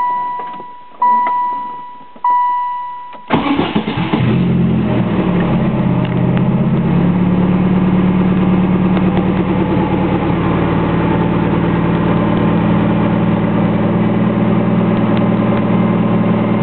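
The car's warning chime dings three times, then about three seconds in the turbocharged 1998 Saturn's four-cylinder engine catches and settles into a steady, noisy idle through its open 3-inch downpipe.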